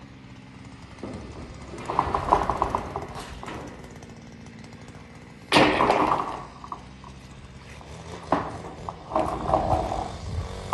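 Roofing work on corrugated zinc sheets: three bursts of rattling and banging, the second starting with a sudden loud bang about halfway through.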